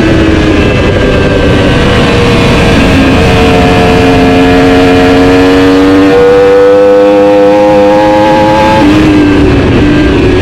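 Superbike engine running hard on the race track, its pitch climbing slowly for several seconds and then dropping sharply near the end, as at a gear change or on braking, over heavy wind and road rush.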